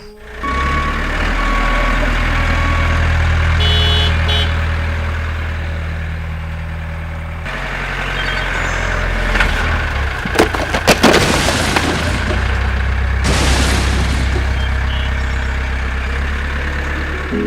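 Engine of a miniature DIY tractor running steadily, with a short run of sharp knocks and clatter about ten to eleven seconds in.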